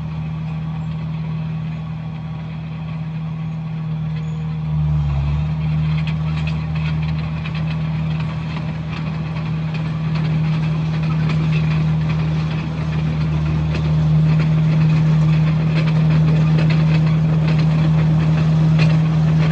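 Komatsu bulldozer's diesel engine running steadily. From about five seconds in, a busy clatter of knocks and scraping joins it, and the sound grows a little louder.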